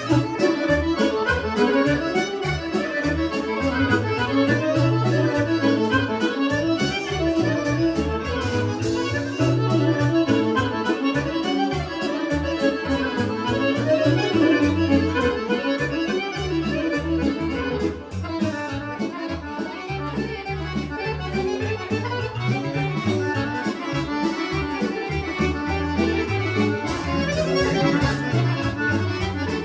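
Serbian kolo folk dance music: an accordion-led band with violin playing a mixed-kolo medley at a fast, steady beat over a moving bass line.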